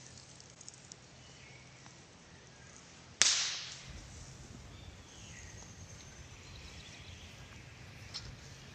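A single sharp rifle shot about three seconds in, dying away over about half a second.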